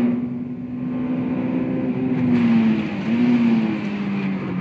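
Honda S2000's four-cylinder engine heard from inside the cabin at track speed, holding a steady note; about three seconds in the pitch drops, rises briefly and settles lower.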